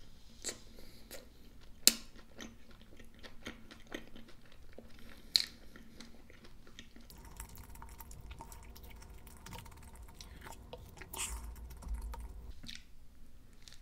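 Close-miked chewing of a soft scrambled-egg and sausage sandwich on white bread: soft wet mouth sounds and small clicks, with two sharper clicks about two and five seconds in. A low rumble comes in about halfway and fades near the end.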